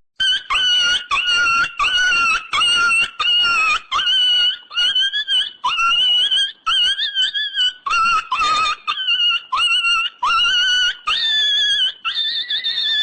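Comedy sound effect: a long run of short, high-pitched squeaks, about two a second, each starting with a quick upward slide, rising a little higher near the end.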